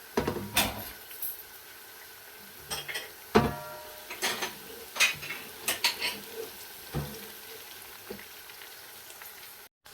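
A spoon knocking and scraping against a cooking pot while stirring onions, garlic, ginger and green chilies frying in butter, over a faint steady sizzle. One knock about three and a half seconds in rings briefly.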